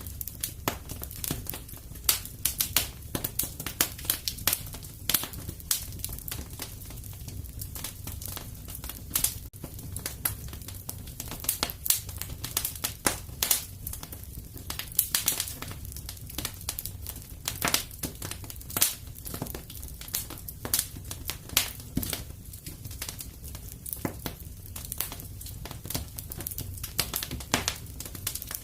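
Wood fire crackling in a fireplace: irregular snaps and pops, some sharp and loud, over a steady low rumble of the flames.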